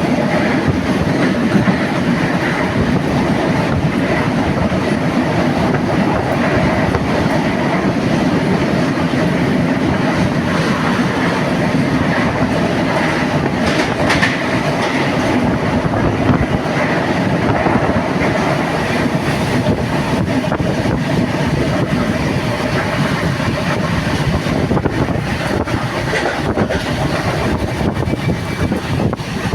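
A moving passenger train running along the track: a steady, unbroken noise of the wheels on the rails.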